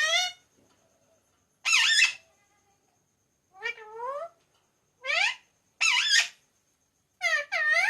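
Pet Indian ringneck parrot giving a series of short, high-pitched squeaky utterances, one or two syllables each with sweeping pitch, about six of them at roughly one-second intervals.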